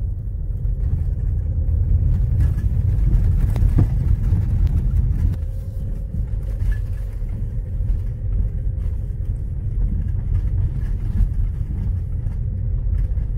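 Car driving on a gravel road: a steady low rumble of engine and tyres.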